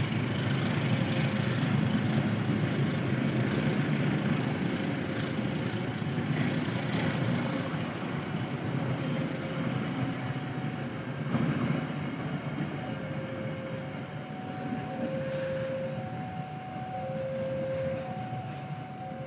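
A train running through the station in heavy rain: a steady mix of rail rumble and rain noise. A two-note tone alternates about once a second, clearest in the last third.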